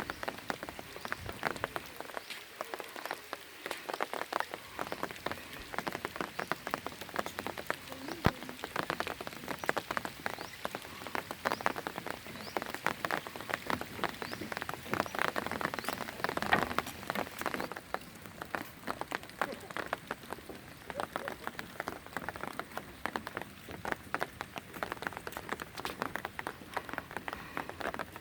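Rain falling: a dense, irregular patter of drops striking a hard surface, heaviest about halfway through.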